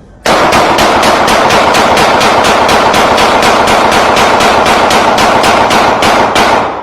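A loud, rapid, even string of bangs, about four a second over a continuous roar, starting abruptly and stopping near the end.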